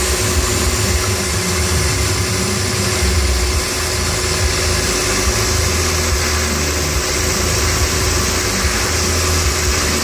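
Milling machine running steadily while plunge-cutting knife pocket clips: a steady low hum and a held tone under an even hiss.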